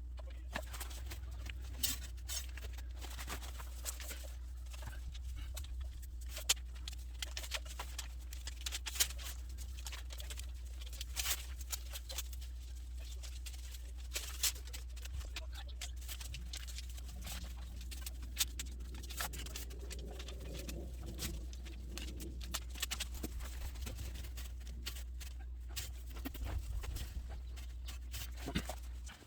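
Scattered small clicks and taps of hands working on a motorcycle exhaust, over a steady low hum.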